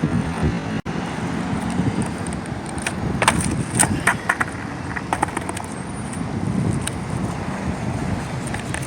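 Skateboard wheels rolling on pavement, with a series of sharp clacks of the board hitting the ground between about three and five seconds in during freestyle tricks.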